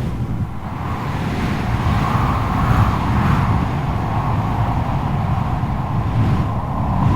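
Strong wind blowing in gusts: a deep rumble under a howling tone that swells and eases.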